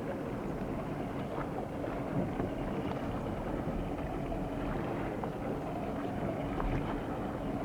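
Wind rushing over the microphone with water noise from a boat on the move, and a faint steady hum underneath.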